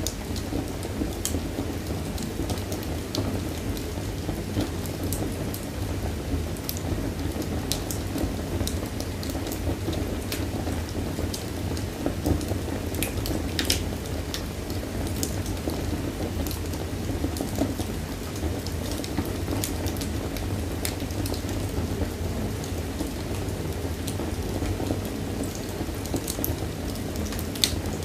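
Wood fire burning in a fireplace: a steady low rush of flame with frequent small crackles and occasional sharper pops.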